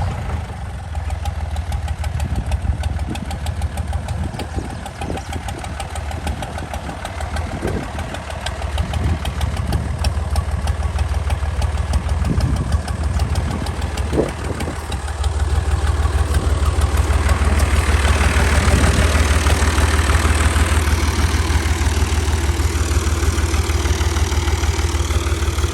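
Al-Ghazi 65 hp tractor's diesel engine running steadily, with a few knocks in the middle; about sixteen seconds in it gets louder and harder-working and holds there.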